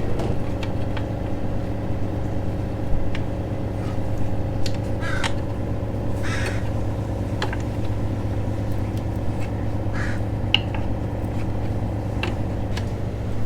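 A steady engine drone runs throughout. Over it come a few short, harsh calls, about 5, 6 and 10 seconds in, and scattered light clicks.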